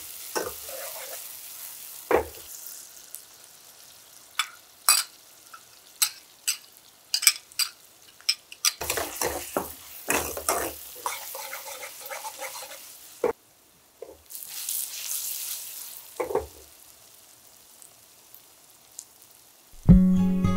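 Chopped onion, ginger and garlic frying in oil with whole spices in a hammered metal saucepan: a steady sizzle, with the clinks and scrapes of a metal ladle stirring against the pan. Music comes in near the end.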